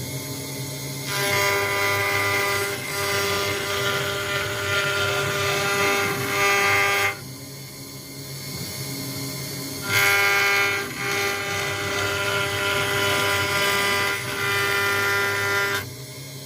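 CNC router spindle running with a steady whine while the bit machines an acrylic sheet. The cutting noise swells loud about a second in, eases for a few seconds around the middle, comes back loud, and drops again near the end as the tool moves between cutting and lighter passes.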